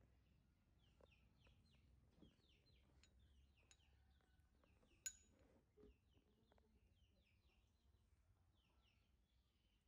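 Near silence with faint bird chirps, short falling calls repeated in quick clusters, and a single sharp click about five seconds in.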